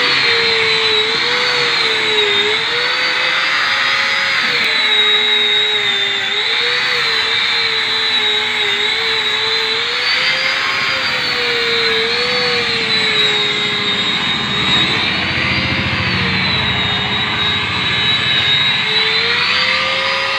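Handheld electric polishing machine running continuously on stainless steel, its high whine dipping and recovering every second or two as it is pressed into the work and eased off.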